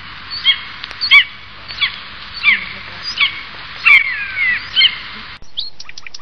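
Birds calling: one bird repeats short, downward-sliding calls about every half second to a second. About five seconds in the sound changes abruptly to a quick run of high, thin chirps.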